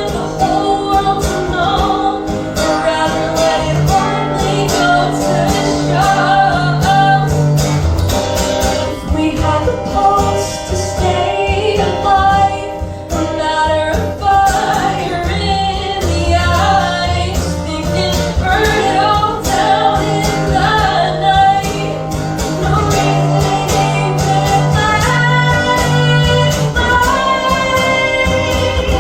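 Live band music: guitar over a bass line and a steady beat, with singing.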